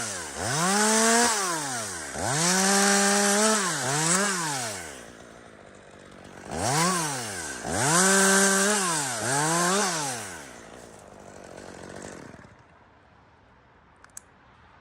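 Two-stroke chainsaw revved up and down in about seven quick bursts, several held briefly at full throttle as it cuts, typical of limbing the branches off a spruce. It drops to idle and goes quiet near the end, with a few light clicks.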